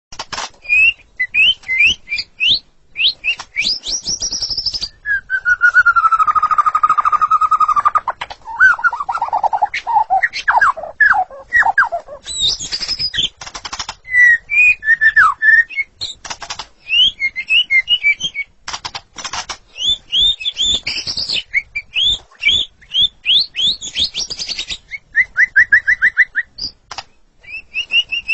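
White-rumped shama (murai batu) singing vigorously, a long varied song. It runs through clear whistles, rapid series of rising notes and sharp clicking notes, with one long falling whistle about five seconds in.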